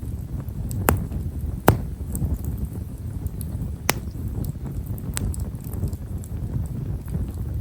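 Campfire of himeshara (Stewartia monadelpha) firewood crackling with small, fine pops, with sharper snaps about a second in, near two seconds, around four seconds and around five seconds, over a low steady rumble.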